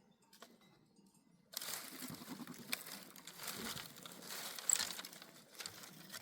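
Irregular crinkling and crunching noise with scattered sharp clicks, starting about a second and a half in.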